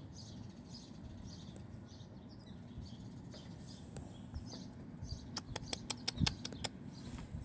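Faint background with small chirps repeating every fraction of a second, and a quick run of about eight sharp clicks a little past the middle.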